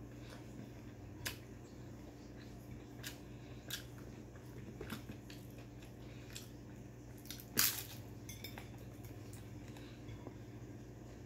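Chewing and crunching of crispy fried pork, with scattered small clicks and taps of fingers picking food off a ceramic plate. One louder crackle comes about two-thirds of the way through.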